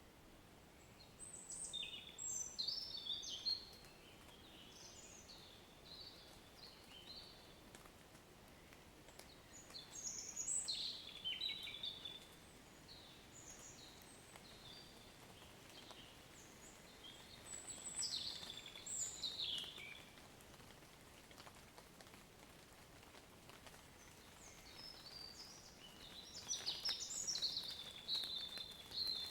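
A songbird sings four bouts of quick, high chirping notes, about eight seconds apart, over a faint steady hiss of light rain.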